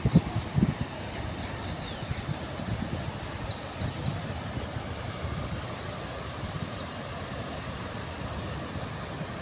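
A steady low rushing outdoor noise, with short high bird chirps scattered through it, most of them in the first half.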